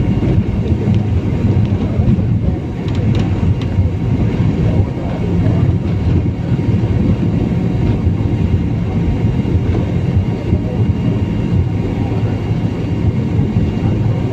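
Steady cabin rumble of a BAe 146 jet taxiing after landing, its four turbofan engines at low power and the wheels rolling over the pavement, with a faint high engine whine above the rumble.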